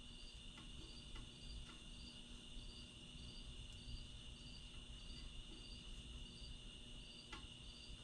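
Quiet background: a steady high tone with a short, faint high chirp repeating about every half second, and a few light clicks.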